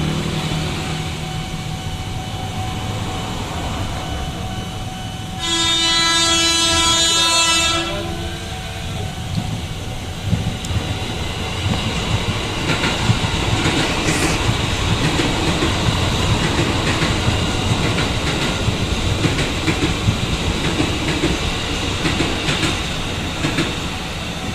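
Ex-JR East 205 series electric commuter train sounding one long, steady horn blast about five seconds in, lasting a bit over two seconds. It then runs past with a rumble and the repeated clicking of its wheels over the rail joints.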